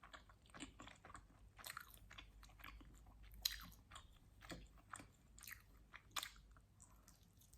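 Close-miked chewing of pizza: irregular wet mouth smacks and small crackles of crust, with two sharper crunches about halfway through and again near the end.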